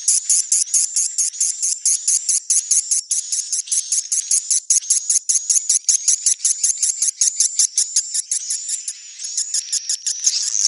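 Swiftlet twittering as a 'neutral sound' lure track, the kind played in swiftlet houses: a dense, rapid run of high chirps, about five or six a second, over a thin steady high tone, with a brief lull shortly before the end.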